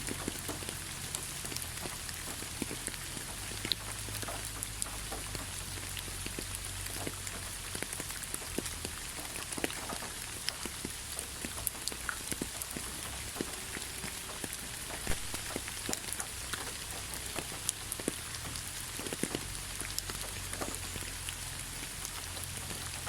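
Steady rain with many individual drops pattering and ticking on a surface, under a continuous hiss and a low rumble.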